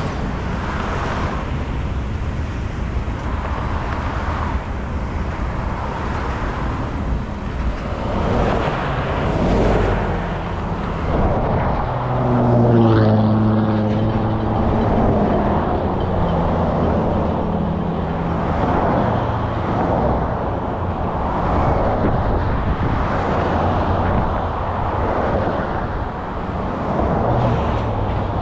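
Steady rumble of road traffic beside a slow-moving freight train. About twelve seconds in, one vehicle passes close, its pitch falling as it goes by.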